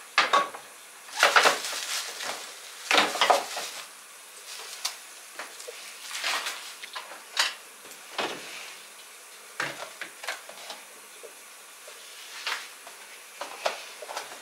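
Dishes and kitchen utensils being handled: irregular clinks, knocks and short scrapes, about a dozen over the stretch, the busiest cluster in the first four seconds.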